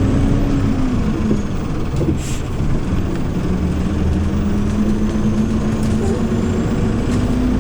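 Hyundai New Super Aero City CNG city bus engine running while under way, heard from inside the cabin. Its note rises and falls over the first second or so, then holds steady. A short hiss of air comes about two seconds in.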